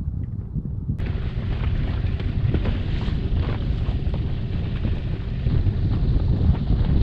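Wind buffeting the microphone in a heavy low rumble; about a second in a steady rushing hiss of wind and water joins it.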